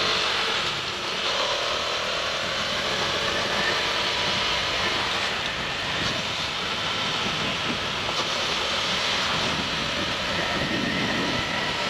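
Steady wind and road noise rushing over the microphone while riding a KTM Duke 200 motorcycle, with its engine running underneath.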